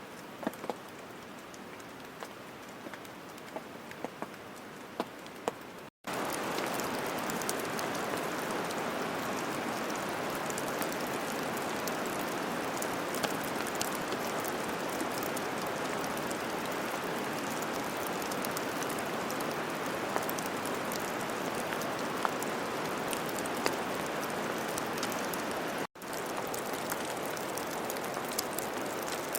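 Rain falling: light rain with scattered drops at first, then, after an abrupt break about six seconds in, a heavier, steady hiss of rain full of fine drop ticks. A second brief break comes near the end.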